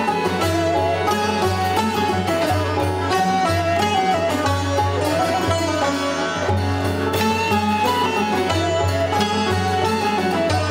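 Persian music played on a plucked string instrument: a quick, winding melody of rapidly picked notes over a steady low accompaniment.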